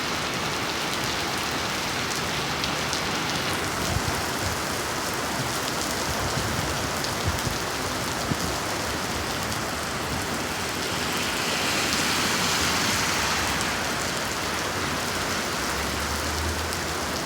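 Heavy rain pouring down steadily, hissing with scattered drips and taps, growing heavier for a few seconds midway. A low rumble comes in near the end.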